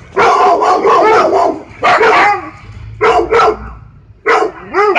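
A dog barking repeatedly: a rough run of barks lasting about a second at the start, then single and paired barks at intervals of roughly a second.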